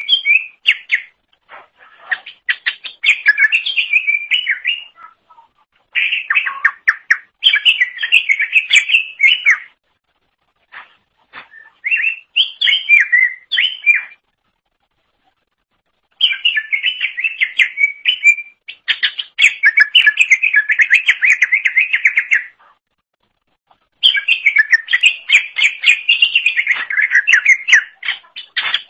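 Cucak ijo (green leafbird) singing: loud bouts of rapid, varied notes a few seconds long, broken by short pauses.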